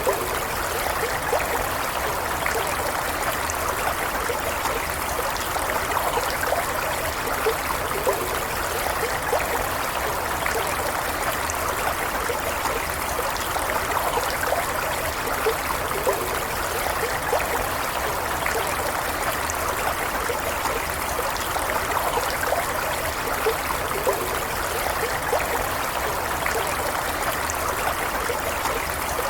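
Running water of a small stream flowing and trickling, a steady rushing hiss with small burbles and splashes in it.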